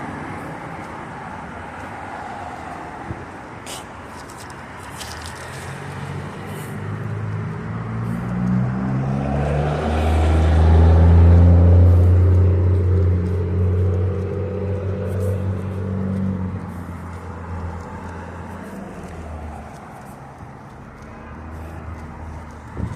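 A car going by on the road, its engine note rising as it speeds up, loudest about halfway through and then fading away.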